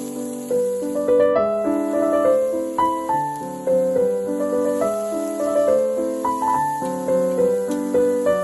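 Background piano music playing a gentle melody over held chords, its notes struck in a steady, unhurried rhythm.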